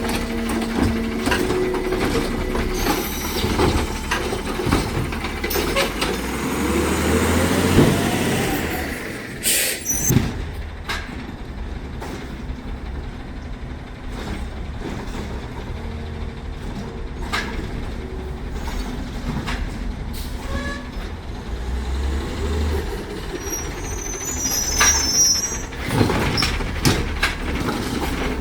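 Side-loader garbage truck working: its diesel engine runs and revs up for a few seconds, with a rising whine. A short sharp air-brake hiss comes about nine seconds in, and knocks and clanks are scattered through.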